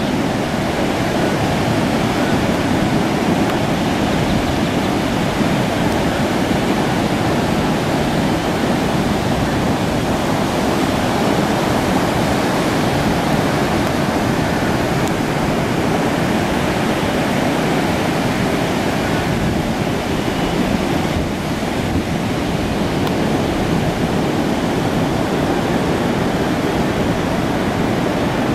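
Heavy surf from a distant hurricane's swell breaking on the beach: a continuous, even roar of waves.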